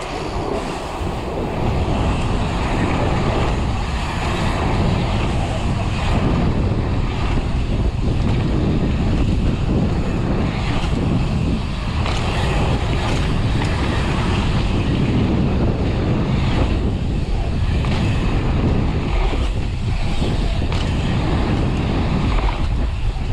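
Wind rushing over the microphone of a mountain bike moving at speed, with tyres rolling on dirt and a few short knocks from the bike over the jumps.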